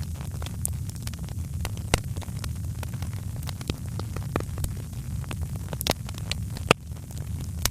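Wood fire crackling: scattered sharp pops and snaps over a steady low rumble, with one louder pop near the end.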